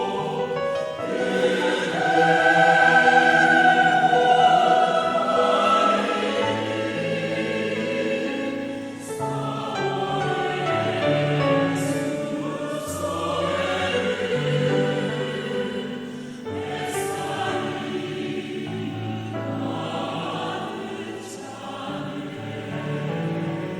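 Choir singing a slow, lyrical song with instrumental accompaniment, swelling loudest a couple of seconds in.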